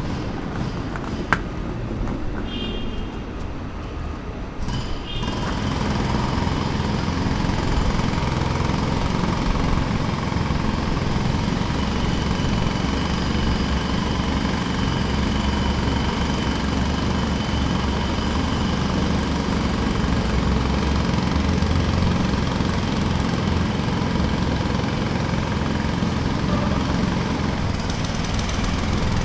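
Jackhammer hammering rapidly and continuously, getting louder about five seconds in.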